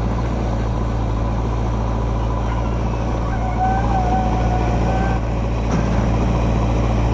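Heavy diesel engine running steadily with a deep, even drone. A thin, wavering whine rises over it from about three seconds in and stops about two seconds later.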